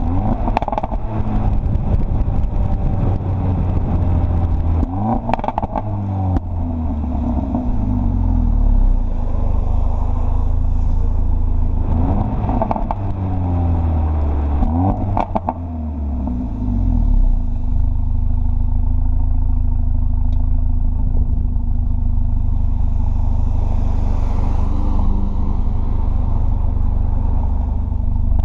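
Mercedes CLA45 AMG's turbocharged 2.0-litre four-cylinder engine revving, its pitch rising and dropping several times with a few sharp exhaust pops among the changes. In the second half it runs at a steady pitch.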